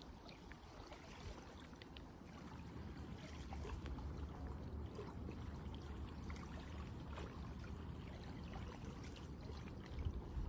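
Water trickling and lapping, with a low steady rumble underneath and faint scattered ticks.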